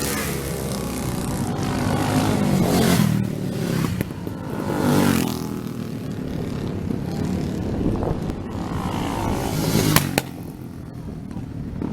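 Road-racing motorcycles passing at speed one after another, each engine swelling and falling in pitch as it goes by, the last and loudest about ten seconds in.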